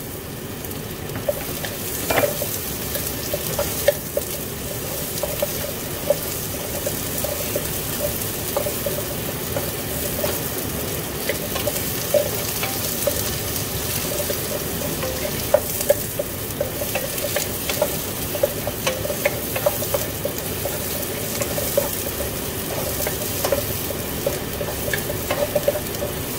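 Chopped onion and garlic sautéing in hot oil in a nonstick frying pan: a steady sizzle, with a wooden spatula scraping and tapping against the pan as it stirs, giving frequent short clicks.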